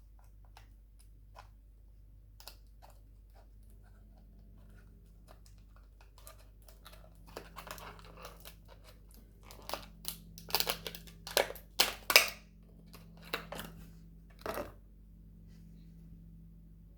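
A sweet wrapper being crinkled and torn open, in a run of sharp rustling bursts that grows loudest in the middle, with faint scattered clicks before and after.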